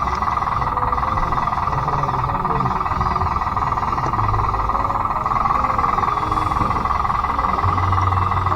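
Remote-controlled Bruder D5 bulldozer's electric drive motors and gearboxes whining steadily, with a low rumble that swells and fades as it works.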